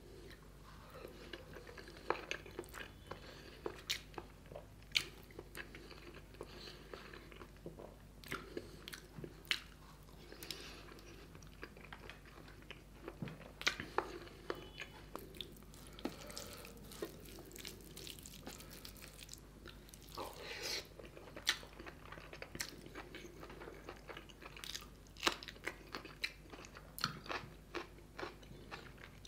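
Close-miked eating: a man chewing mouthfuls of curry and rice with boiled egg, with many sharp wet mouth clicks and smacks and occasional crunches.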